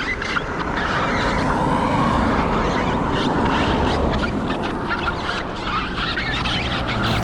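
Outdoor street noise with a motor vehicle passing, its sound swelling and fading over a few seconds, over scattered short crunching clicks.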